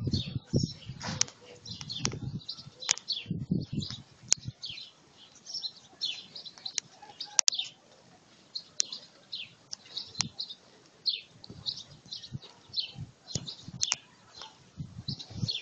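Small birds chirping: short, high chirps repeated throughout. A few low rustling thumps come in the first few seconds.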